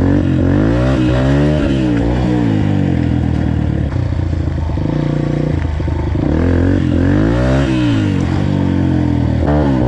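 Dirt bike engine running and revving, its pitch climbing and dropping several times.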